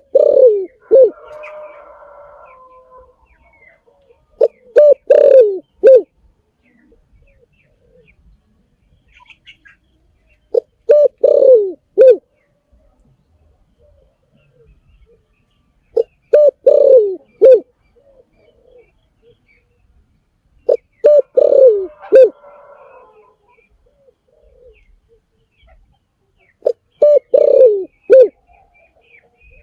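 Spotted dove cooing: a short phrase of three or four low coos, repeated six times, about every five to six seconds.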